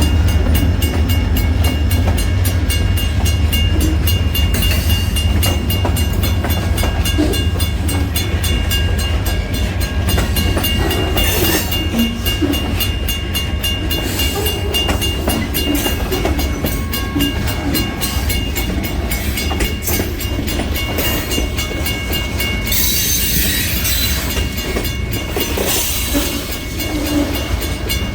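Kiamichi Railroad freight train rolling past, its wheels clicking over the rail joints. The low rumble of its diesel locomotives fades after about ten seconds.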